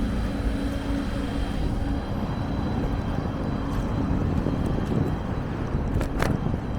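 Steady low rumble of wind and road noise from a moving bicycle, with a faint held music tone fading out about two seconds in and a short click near the end.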